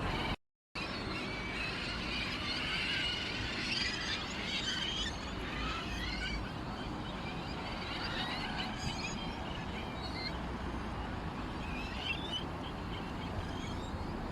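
Many small birds chirping and twittering together over a steady background hiss. The sound cuts out completely for a moment shortly after it starts.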